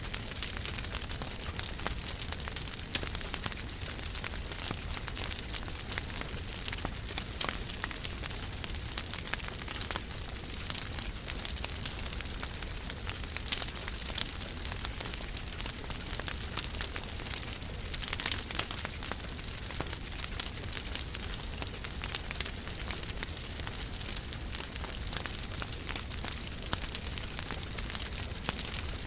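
Wood fire crackling in a fireplace: a steady hiss with frequent small crackles and a few louder pops, about three seconds in, near the middle and a little past it.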